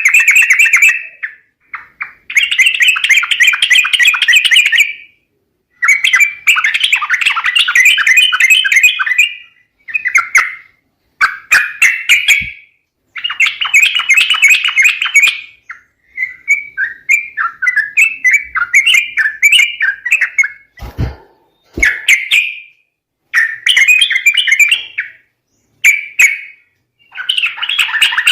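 Yellow-vented bulbuls chattering in repeated bursts of one to three seconds, with short pauses between them. This is a lure recording of trucuk calls, played to draw in wild birds.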